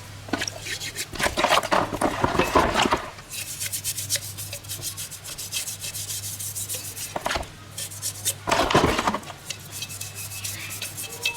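Rapid, repeated hand rubbing and scraping strokes on a lawn mower part, louder in two stretches, over a steady low hum.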